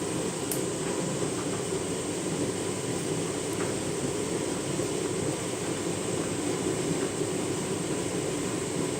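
Candy front-loading washing machine in its wash cycle, the drum turning a load almost completely filled with suds, a steady churning run with a few faint ticks.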